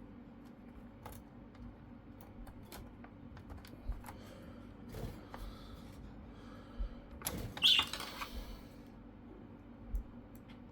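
Small screws being driven into a laptop's plastic case with a small screwdriver: scattered light clicks and ticks of the bit and screws on plastic, with a louder scraping rustle of the laptop being handled about seven seconds in.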